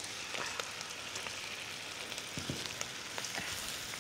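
Whole raw prawns sizzling in hot oil and chilli paste in a wok: a steady sizzle with scattered crackles and spits, and a few light knocks as a spatula stirs them.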